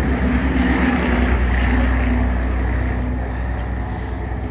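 Motor vehicle running, a steady low rumble with a hum above it, growing a little quieter toward the end.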